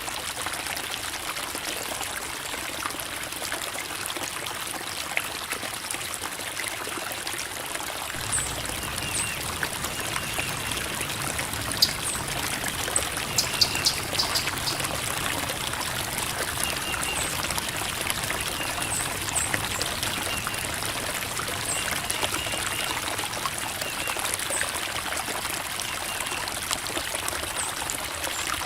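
Creek water trickling and babbling over rocks in a steady flow. The lower rush fills out about eight seconds in, and a few sharper ticks sound near the middle.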